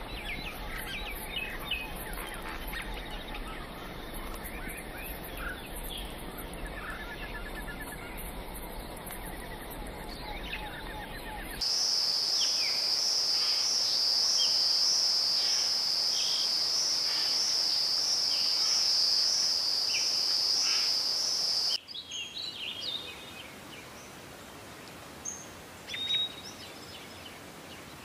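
Forest wildlife sounds: high chirps and trills, then a loud, steady, high-pitched insect drone that starts and stops abruptly, about ten seconds long, then a few scattered bird chirps.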